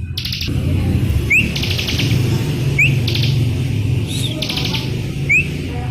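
Bar-winged prinia (ciblek) singing: a short rising whistled note followed by a fast, buzzy trill, repeated about every second and a half, over a steady low hum.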